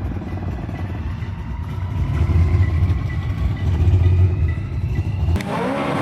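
Car engine running with a deep, pulsing low rumble that swells twice, as if briefly revved. It cuts off abruptly near the end into a different, busier sound.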